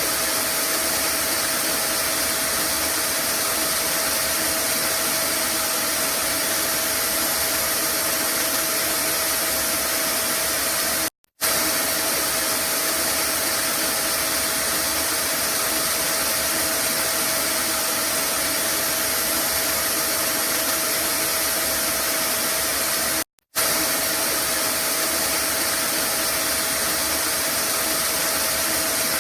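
Vacuum cleaner running steadily: a constant rushing noise with a steady tone in it. It cuts out completely for a split second twice, about eleven and twenty-three seconds in.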